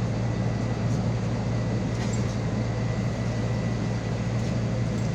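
MAZ 216.066 city bus heard from inside the cabin, its engine and running noise a steady low hum with a level drone and no gear changes or sudden events.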